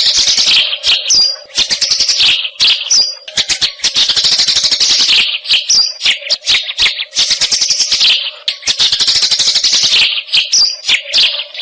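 Eurasian tree sparrows chattering in a fast, dense run of chirps, the squabbling 'gereja tarung' style, the same phrase coming round about every four seconds. A steady low hum runs underneath.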